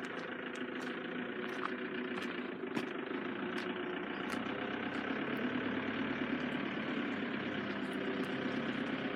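An engine idling steadily, with faint light ticks over it.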